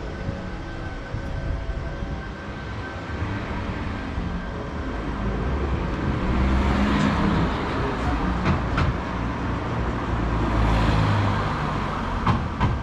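Motorcycle engine running while riding, a low rumble under a rushing noise that gets louder about halfway through, with a few sharp clicks.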